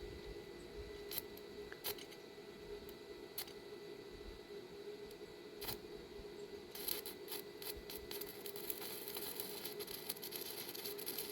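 Electric arc welding on an iron gate: a few scattered sharp clicks, then from about seven seconds in the continuous crackle of the welding arc, growing denser toward the end, over a steady hum.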